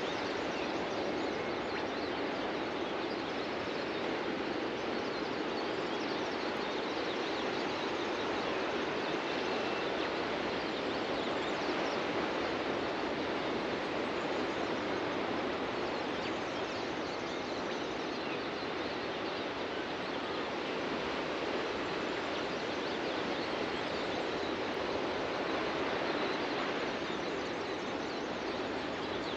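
Steady rush of surf washing onto a beach, with a few faint bird chirps over it.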